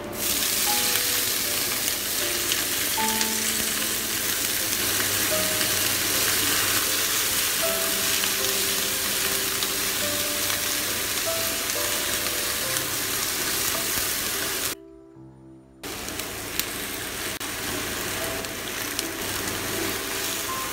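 Hot oil sizzling loudly as yuba (tofu skin) drops into a pan with garlic, ginger and dried chillies and is stir-fried with a wooden spatula. The sizzle drops away for about a second about three-quarters of the way in, then comes back.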